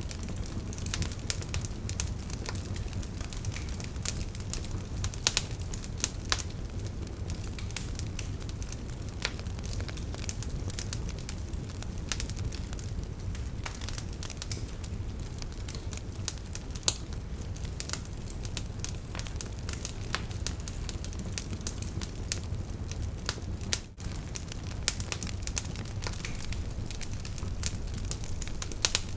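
Wood campfire burning: a steady low rush under frequent sharp crackles and pops from the firewood.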